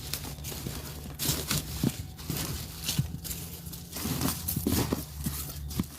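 Compost and peat moss being handled and spread in a plastic storage tote: irregular rustling, scraping and light knocks against the tote, over a steady low hum.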